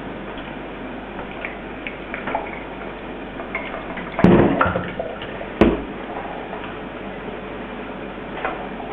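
Plastic parts of a replacement eSpring water filter cartridge being handled and fitted together, with small taps and two sharp knocks about four and five and a half seconds in.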